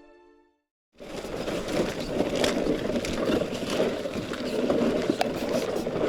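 Gusty wind buffeting the microphone, a rough rumbling noise, with scattered sharp clicks and crunches, starting abruptly about a second in after the tail of fading music.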